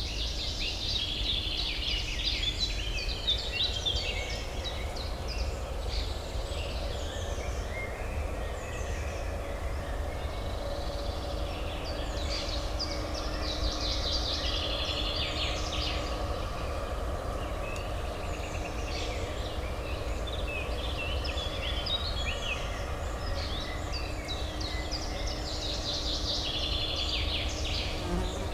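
Songbirds chirping and twittering in repeated clusters, over a steady low urban hum.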